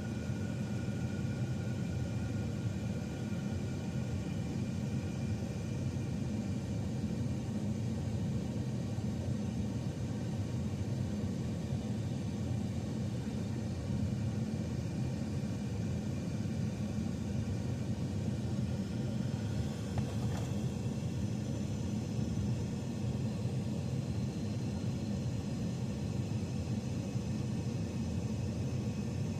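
A heavy truck's diesel engine running steadily with a low rumble, with one brief knock about twenty seconds in.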